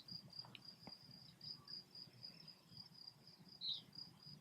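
Crickets chirping faintly in a steady, evenly pulsing high-pitched trill, with one brief louder chirp near the end.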